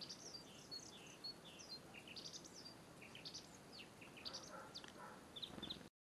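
Faint chirping of small songbirds: many short, high, quick notes, coming thicker after the first couple of seconds, then cutting off suddenly just before the end.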